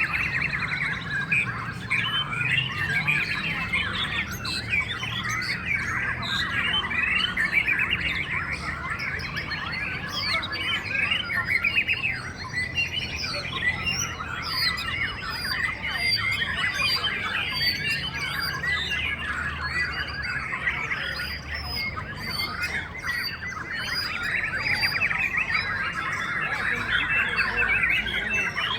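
Many caged white-rumped shamas singing at once, a dense, unbroken chorus of overlapping whistles and chattering calls.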